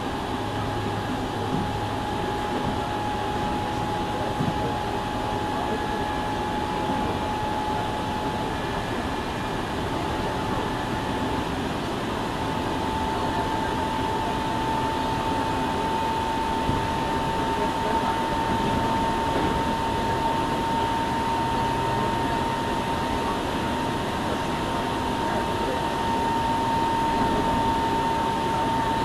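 Steady noise inside a Hankyu 7000-series train car, with a constant whine that steps up slightly in pitch about twelve seconds in and then keeps creeping higher.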